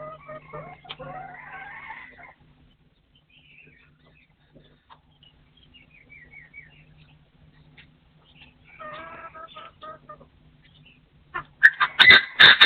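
Partridge calls: clucking notes at the start and again about two thirds of the way in, with faint high chirps between. Near the end comes a loud, harsh burst of calling with sharp clicks, over a faint steady hum.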